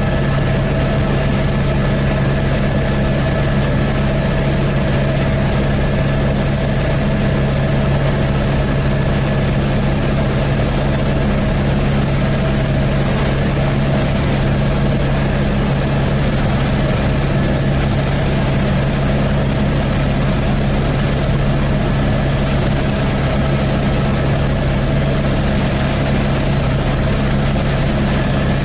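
Helicopter in steady flight heard from inside the cabin: a loud, even drone of engine and rotors, a deep hum with a fainter steady whine above it.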